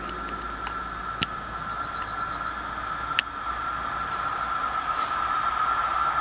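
Train approaching, not yet in sight: the rails give a steady high ringing tone while a rushing noise grows steadily louder. Two sharp clicks and a brief rapid ticking sound over it.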